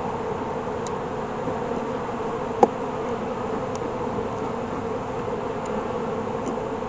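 Honey bees buzzing steadily around an opened hive, with one sharp click about two and a half seconds in.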